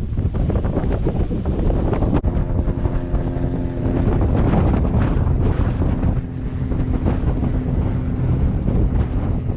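Strong sea wind buffeting the microphone in heavy low rumbling gusts, with choppy surf underneath. A steady low tone joins about two seconds in and holds.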